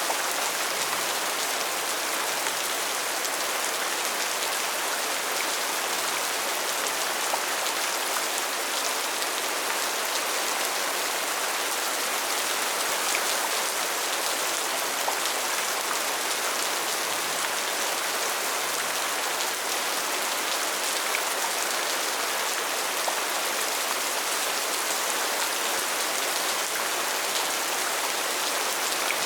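Steady rain falling, an even wash of sound with many small, scattered drop ticks and no let-up.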